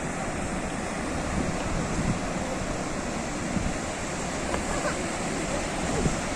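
Ocean surf washing continuously, with small swells in loudness.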